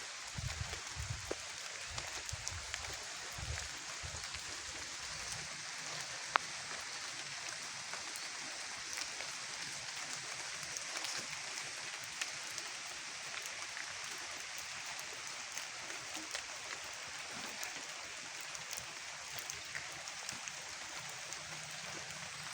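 Steady rural outdoor ambience: an even hiss with many small scattered ticks and one sharp click about six seconds in, with low rumbles during the first five seconds.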